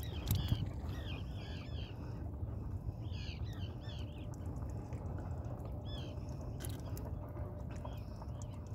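Birds calling: many short, arched high-pitched calls in quick clusters, thicker in the first half and sparser toward the end, over a steady low rumble.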